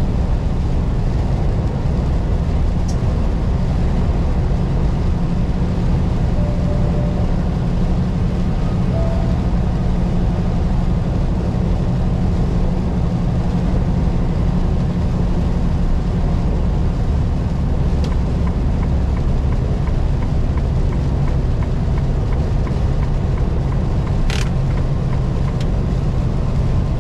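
Semi-truck driving at highway speed: a steady, loud low drone of the diesel engine and drivetrain with a hiss of tyres on a wet road.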